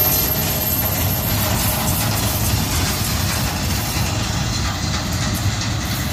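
Freight train's cars rolling past, a steady rumble of steel wheels on rail.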